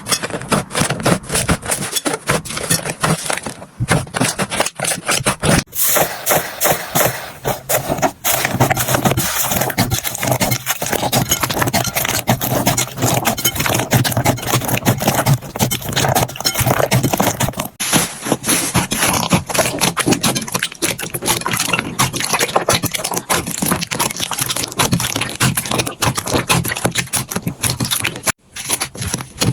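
Slime being squeezed, poked and stretched by hand close to the microphone: a dense run of wet clicks, pops and crackles, dropping out briefly a few times.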